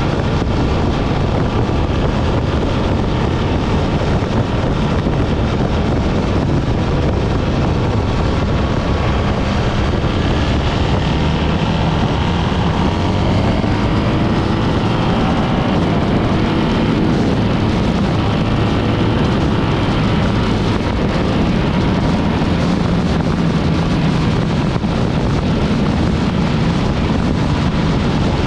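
BMW R 1300 GS motorcycle being ridden, with heavy wind rush on the microphone over the engine and road noise. The engine's note rises and falls around the middle.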